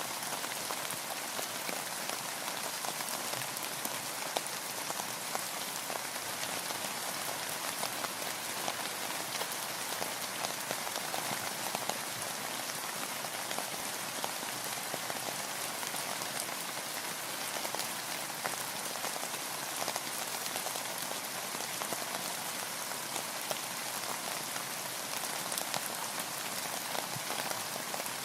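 Steady rain falling on and around a boat on the water, a constant hiss thick with small drop hits.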